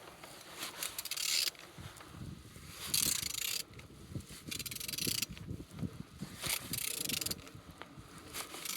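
Opel A16XER 1.6-litre four-cylinder petrol engine running, a busy mechanical whir and clatter of belt and valvetrain, with a few hissy surges. The engine is running in good order.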